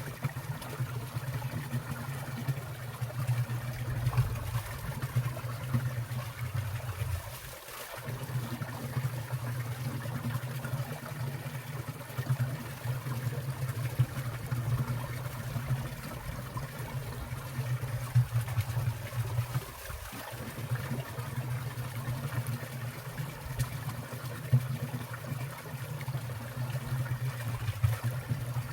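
Water falling and trickling in a winter mountain stream: a steady low rush with frequent small splashes.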